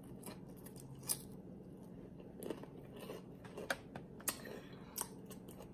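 Close-up chewing of crunchy tortilla chips topped with nacho cheese: a scattering of short, sharp crunches between quieter chewing.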